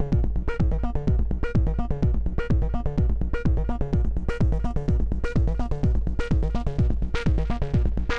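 Eowave Weather Drones 1.5 synth voice playing a sequenced, wave-folded melodic line over a techno drum beat, about two kicks a second. About seven seconds in the tone turns much brighter as more fold or filter opening is brought in.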